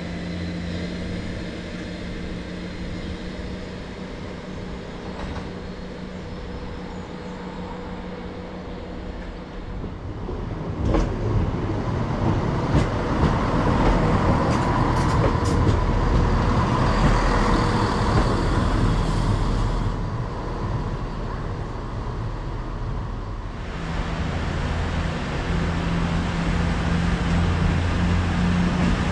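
Diesel multiple-unit trains. First a steady diesel engine hum as a two-car unit approaches. About ten seconds in, a louder, noisier rush of a unit running past close by, with a few sharp clicks. Near the end, a steady diesel engine hum returns.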